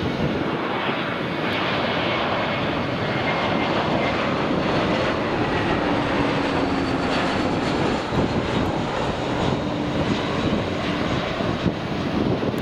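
Jet airliner's engines running loud and steady as the plane passes, a dense rush with a faint high whine over it.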